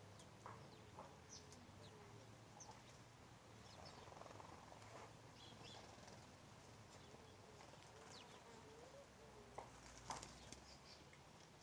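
Faint outdoor birdsong: many short, scattered high chirps and a few soft wavering calls. Two sharp clicks come close together near the end.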